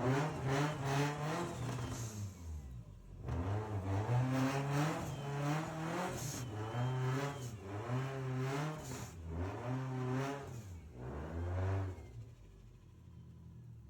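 Car engine revving several times in surges of a second or two, the pitch rising and falling with each one, then dropping away near the end.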